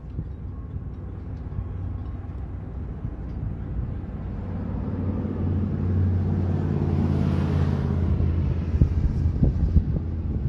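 A large diesel engine runs with a low hum. It grows louder over a few seconds, then eases off, with a few knocks near the end.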